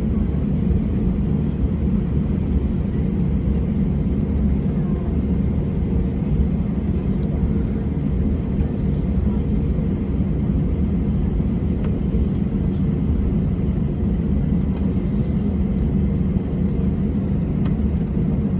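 Steady low rumble inside a jet airliner's cabin after landing, the noise of the aircraft's engines and air system, even and unbroken throughout.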